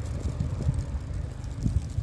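Car driving: a steady low engine and road rumble, with a couple of low thumps from bumps in the road.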